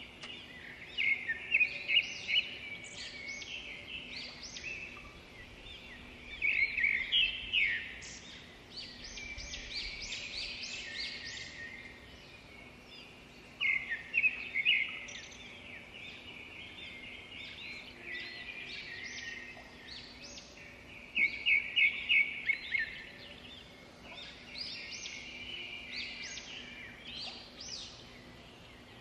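A songbird singing repeated phrases of quick, high notes, each lasting one to three seconds, with pauses of a few seconds between them, over a steady outdoor background noise.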